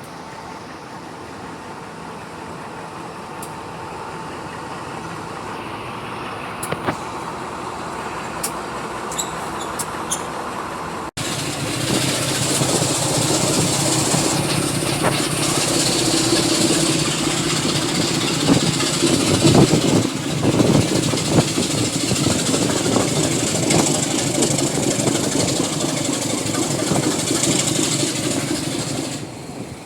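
Diesel locomotive engine running and growing louder as the train comes closer, with a few sharp clicks; after an abrupt cut about 11 seconds in it is louder and closer, with a deep engine note, then falls away near the end.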